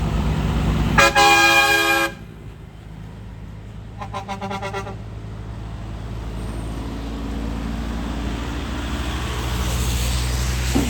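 Truck horn blasting for about a second, then a shorter, fluttering honk a few seconds later, over the low rumble of a heavy truck engine that grows louder toward the end.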